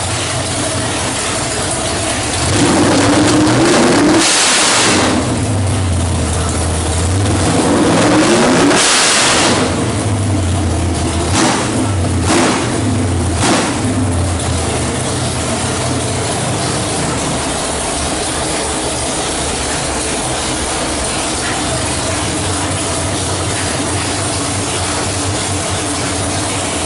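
408 cubic-inch stroker small-block Chevrolet V8 with a hydraulic roller cam running: it idles, is revved up twice, given three quick throttle blips about a second apart, then settles back to a steady idle.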